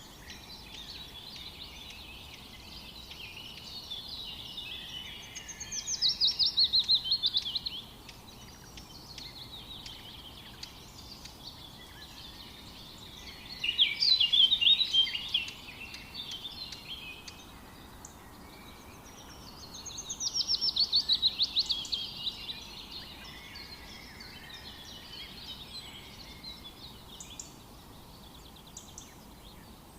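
Birdsong in a forest: three loud phrases of rapid high notes, about seven seconds apart. Softer chirps and a faint steady background hiss fill the gaps between them.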